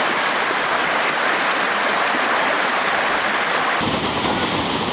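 River water rushing in a steady, loud hiss. About four seconds in, the sound shifts and a deeper rumble comes in under it.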